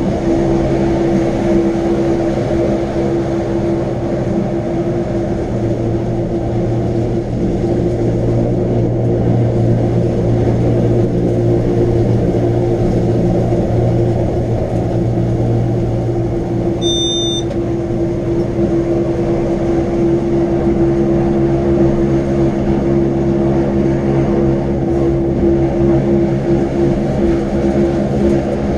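Electric rack-railway train running steadily, a constant drone with a hum of the traction motors. A brief high beep about two-thirds of the way through.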